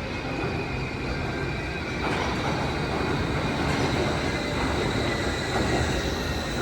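Wuppertal Schwebebahn suspension railway train running along its overhead steel rail, a steady running noise with thin high wheel whines over it, getting louder about two seconds in.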